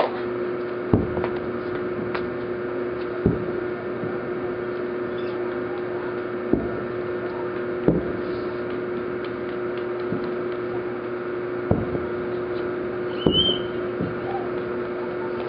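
Distant aerial firework shells bursting: about six dull booms at irregular intervals, over a steady hum.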